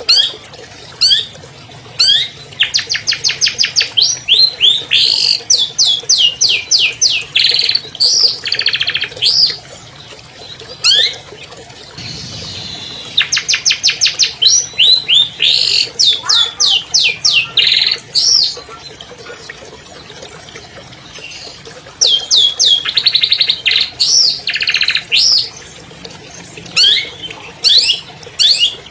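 Long-tailed shrike (cendet) singing loudly in rapid runs of sharp down-sliding notes mixed with fast trills, broken by a pause of a few seconds about two-thirds of the way through.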